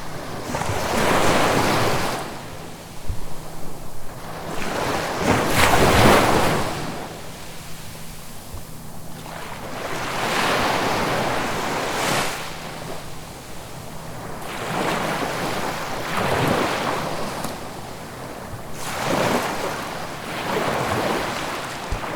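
Ocean waves breaking and washing onto the shore, swelling and ebbing about every four to five seconds, five times over.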